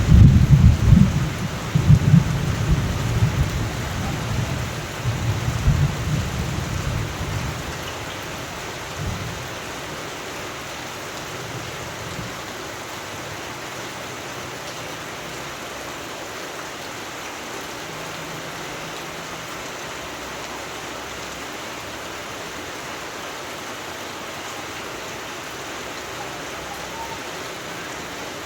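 Steady rain falling, with a rolling rumble of thunder over the first several seconds that dies away by about a third of the way in, leaving an even hiss of rain.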